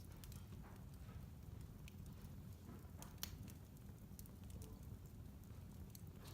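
Wood fire in a fireplace crackling quietly, with scattered sharp pops; the sharpest pop comes about three seconds in.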